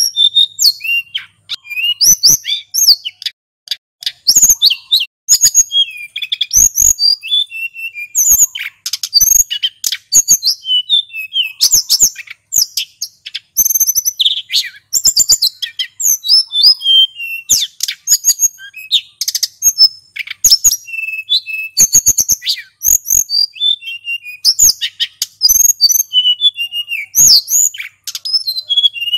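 Male sulingan gunung, a small Indonesian songbird, singing continuously in fast, varied, high-pitched phrases of chirps, trills and whistles with hardly a pause.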